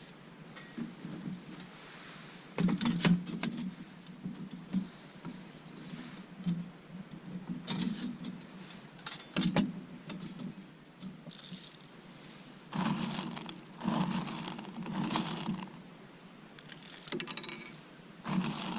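Irregular clatter and knocks of objects being handled, in scattered bursts of sharp clicks.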